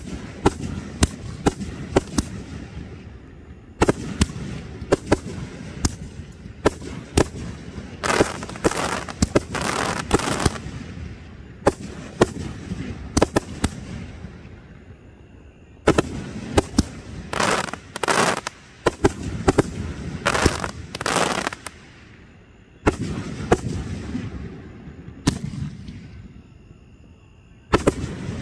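Aerial fireworks display: shells bursting in rapid volleys of sharp bangs, each with a short rumbling tail, broken by brief lulls of a second or two.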